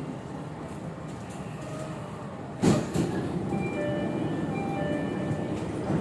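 Inside an MRT Jakarta train carriage: the steady low rumble of the train running, with a sudden loud knock a little before halfway, after which the noise grows louder.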